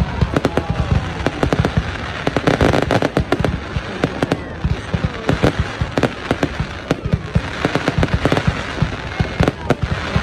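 Display fireworks going off in a dense, continuous barrage: many sharp bangs close together, with crackling between them.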